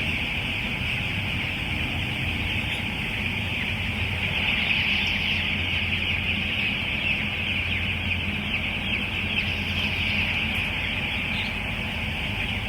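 A large flock of broiler chickens chirping continuously, many high peeps overlapping into a dense chatter, over a steady low hum.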